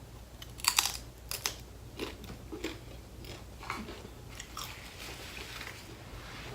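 Close-up biting and chewing of crunchy food: a string of crisp crunches, the loudest a little under a second in.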